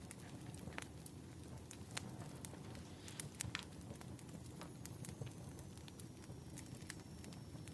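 Wood fire crackling: scattered sharp pops and snaps of burning logs over a low, steady rumble.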